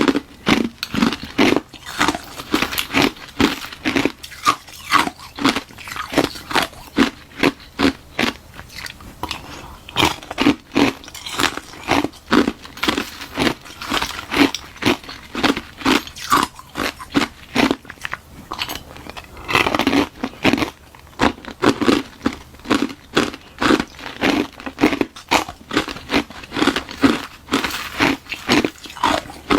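Close-miked crunching of ice being bitten and chewed: a hollow balloon-frozen ice shell filled with frozen milk tea, crunched in a steady run of bites, about two a second.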